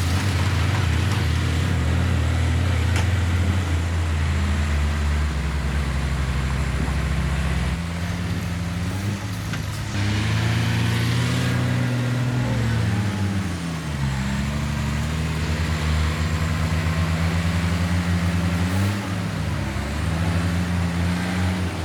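Heavy diesel engine of earthmoving machinery running hard, its pitch dipping and climbing back several times as load and throttle change.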